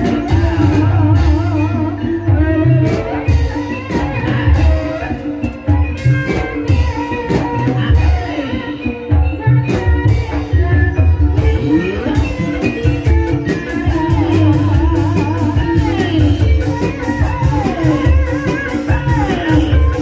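Live gending ebeg gamelan music played for the kuda kepang dance: drums beat a busy pattern under sustained pitched tones, while a singer carries a wavering line with vibrato.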